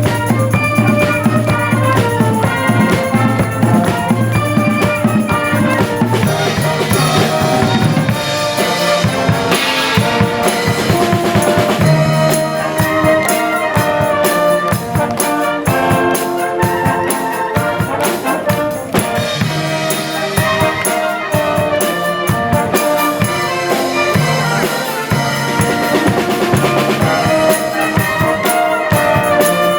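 Live brass band with drum kit playing an upbeat piece: trumpets and other brass over a steady drum beat.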